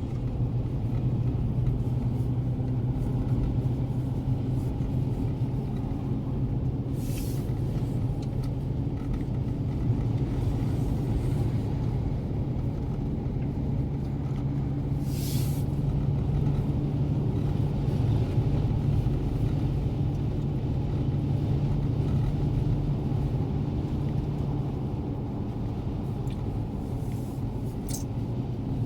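Car cabin noise while driving: a steady low hum of engine and road, with three short hissing rushes spread through it.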